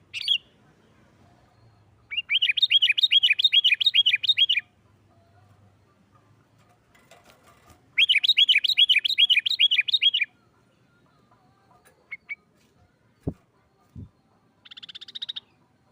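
Sooty-headed bulbul (kutilang) singing in the agitated 'nggaruda' fighting style: two runs of fast, evenly repeated high notes, each lasting about two seconds, with short chirps between them and a brief buzzy trill near the end. Two dull thumps sound in the pause before the trill.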